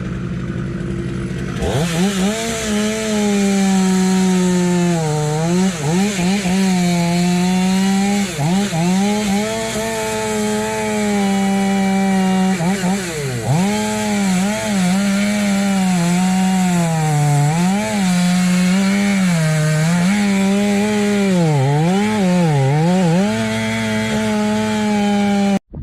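Chainsaw revving up about two seconds in and cutting into an elm trunk at full throttle, its pitch dipping again and again as the chain bogs in the wood, then cutting off abruptly near the end.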